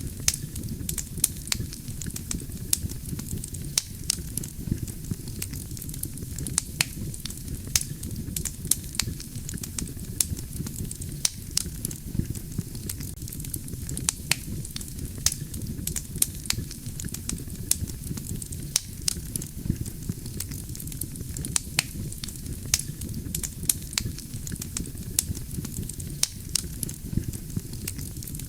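Wood fire burning steadily, with a low rumble from the flames and frequent sharp crackles and pops from the burning logs, several a second at irregular spacing.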